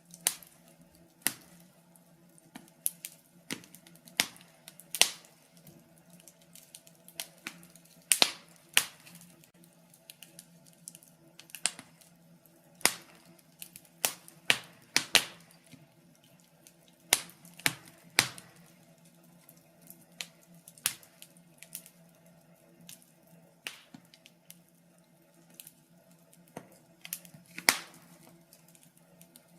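Wood fire in a fireplace crackling, with irregular sharp pops and snaps, several close together now and then, over a faint steady hum.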